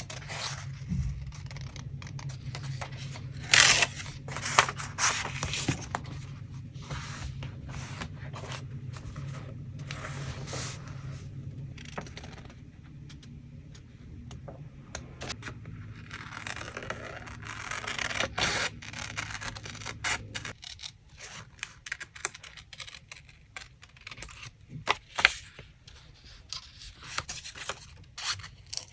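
Collage paper being handled, with irregular scraping and tearing strokes and light taps in short bursts. A steady low hum underneath stops about two-thirds of the way through.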